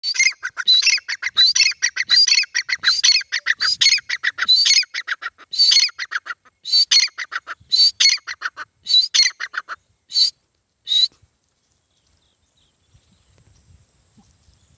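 Grey francolin calling: a fast series of loud, shrill, rapidly repeated notes that grows sparser and stops about eleven seconds in.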